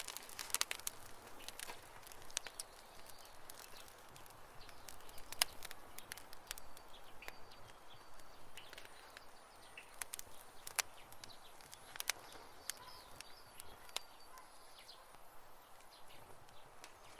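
Wood campfire crackling, with irregular sharp pops and snaps over a soft hiss. Faint short high chirps come now and then.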